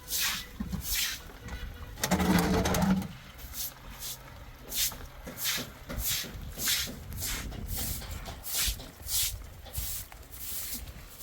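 Repeated scraping strokes, about one and a half a second, hissy and bright. About two seconds in, a louder pitched sound lasts about a second.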